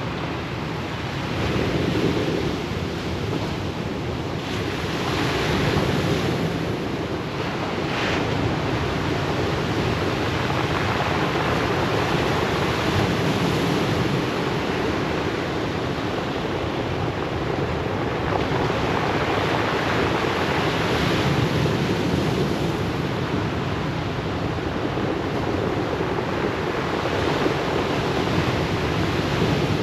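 Ocean surf breaking and washing up the shore: a continuous rush of noise that swells and eases with each wave.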